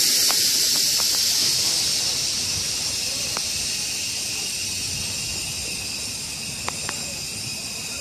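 A train venting pressure with a loud hiss that slowly fades over several seconds, with a few faint clicks.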